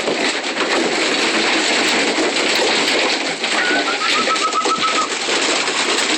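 A loft full of racing pigeons, a loud, steady din of many birds cooing. About three and a half seconds in, a quick string of high peeps runs for about a second and a half.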